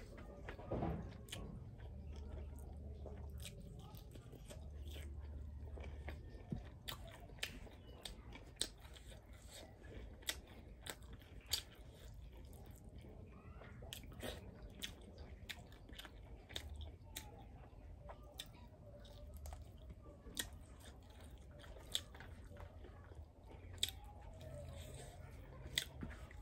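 A person chewing and biting into crunchy fried food, with sharp crunches and clicks coming about once a second.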